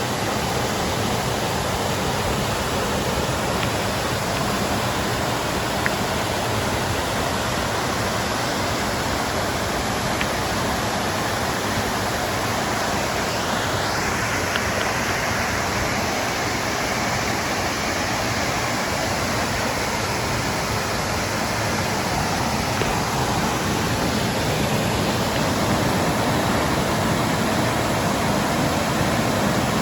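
Kintampo Waterfalls' water falling and rushing over rock: a loud, steady rush.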